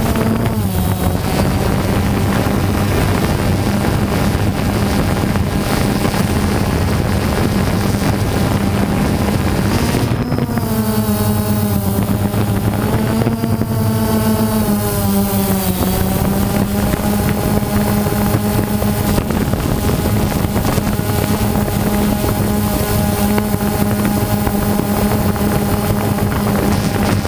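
DJI Phantom 2 quadcopter's motors and propellers whining in flight, heard from the camera on board, over a rush of wind on the microphone. The pitch holds steady, then from about ten seconds in several tones shift up and down for some seconds as the motors change speed, and settles again.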